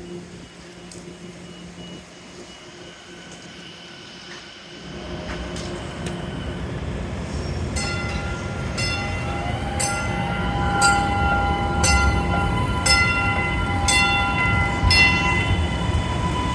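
MBTA Type 9 Green Line light-rail train rolling in, getting louder about five seconds in. From about eight seconds in there is a steady high whine, with sharp clicks about once a second.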